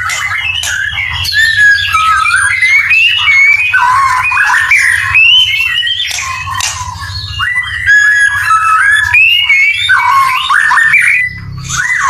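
Birds chirping and calling in a dense, rapid run of varied notes, with a steady low hum underneath.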